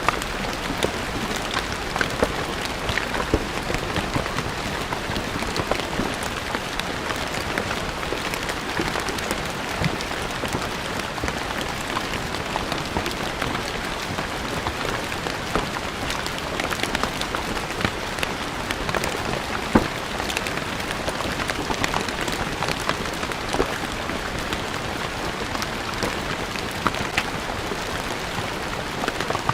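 Steady rain falling on stone ground, a continuous hiss scattered with many individual drops tapping, one slightly sharper splat about two-thirds of the way through.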